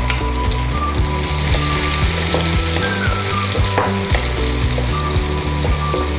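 Chopped shallots and garlic sizzling in hot coconut oil in a nonstick kadai, the sizzle growing louder about a second in, while a wooden spatula stirs them with scattered scraping clicks against the pan.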